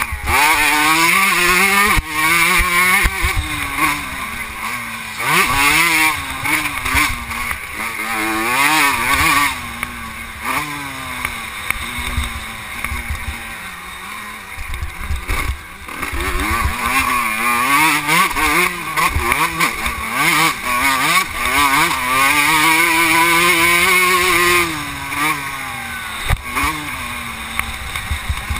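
Vintage 125 cc two-stroke motocross bike being raced, its engine revving up and dropping back over and over. Heard close, from a helmet-mounted camera.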